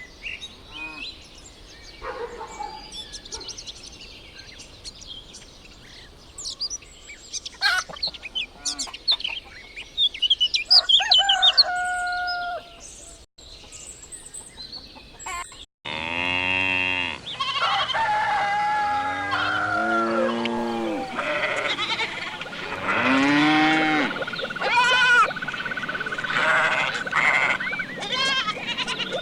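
Farmyard animal calls: chirping and poultry calls in the first half, then, after an abrupt cut about halfway through, loud goat and sheep bleats.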